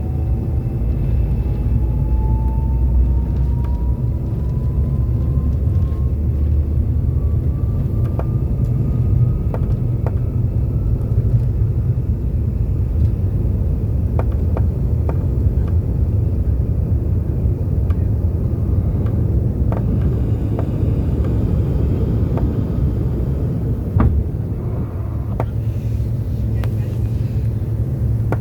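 Jet airliner engines heard from inside the cabin: a steady low rumble, with a whine rising slowly in pitch over the first ten seconds or so and a few faint clicks.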